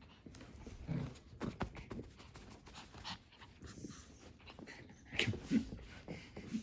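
Small Pomeranian dog panting, with scattered light rustles and clicks as he moves about.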